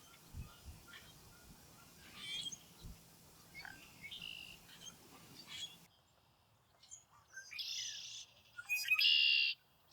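Red-winged blackbirds calling: scattered short chirps, then, after an abrupt change in the background about six seconds in, two loud buzzy trills in quick succession near the end.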